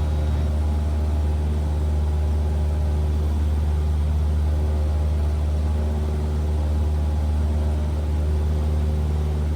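Cessna 172R's four-cylinder Lycoming engine and propeller droning steadily in flight, heard from the cockpit, with a deep, unchanging hum and no change in power.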